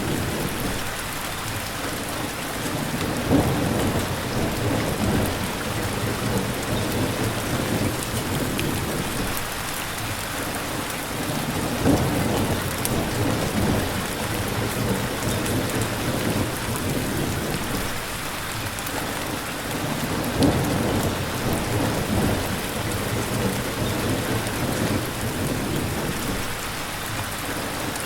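Steady rain falling, with low rumbles of thunder swelling up three times, about every eight or nine seconds.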